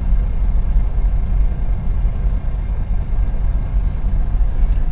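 Steady low rumble of a semi-truck's diesel engine idling, heard from inside the cab while stopped in traffic.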